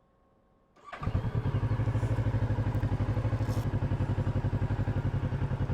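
Kawasaki Z650RS's parallel-twin engine starting up about a second in, catching at once and settling into a steady, evenly pulsing idle.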